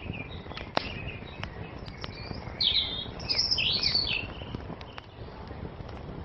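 A wood fire crackling steadily, with scattered sharp pops and one loud pop about a second in. Over it a songbird sings a quick phrase of sweeping, chirping notes about halfway through.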